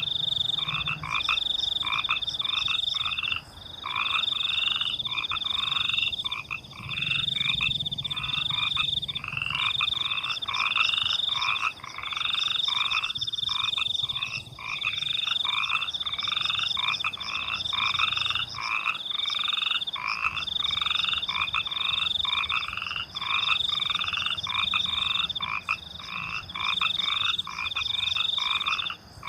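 Night chorus of frogs calling in rapid, repeated croaks, several a second. Over them runs a high, steady cricket trill that comes in stretches of a second or two with short breaks.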